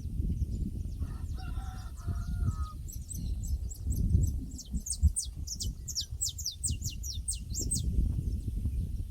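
Pasture soundscape: a rooster crows once, then a small songbird gives a quick run of short, high, falling chirps, over a low rumbling noise.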